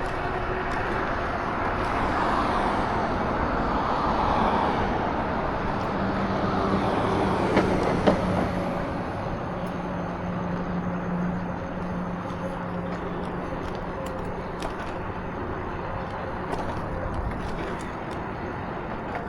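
Motor vehicle running on a road amid steady road and wind noise. An engine hum comes up about six seconds in and holds for several seconds, with a couple of sharp knocks near the middle.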